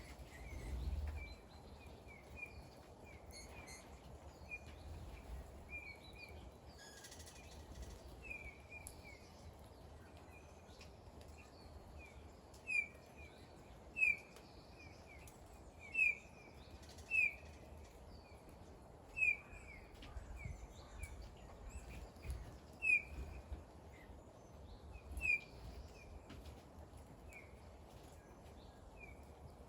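A small bird chirping over and over, short calls every second or so, a handful of them louder than the rest, over a steady low background rumble.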